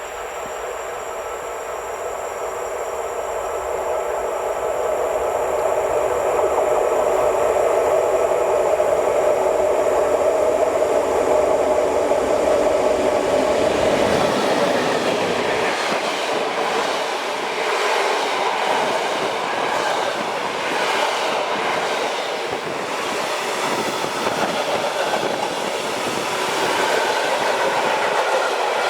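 A train passing close by on the main line. It grows louder over the first few seconds, and from about halfway the wheels clatter over the rail joints in a quick, even rhythm.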